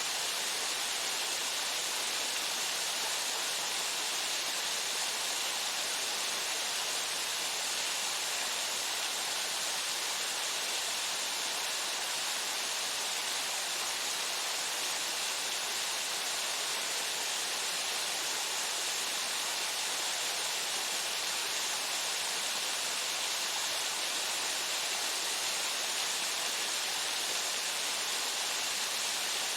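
Waterfall pouring steadily: an even, unchanging rush of water, most of it a bright hiss.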